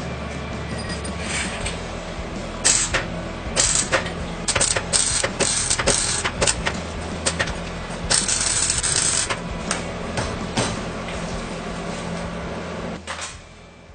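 A series of sharp mechanical clicks and clanks over a steady low hum, with a short noisy rush about eight seconds in.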